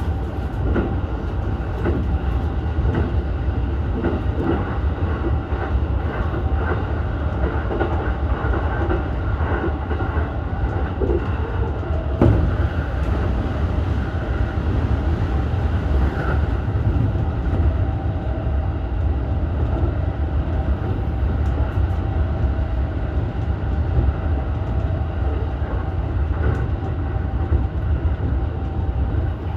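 Keihin-Tohoku Line E233-1000 series electric commuter train running between stations. A steady low rumble of wheels on rail carries scattered clicks over rail joints and a faint steady hum, with one sharper knock about twelve seconds in.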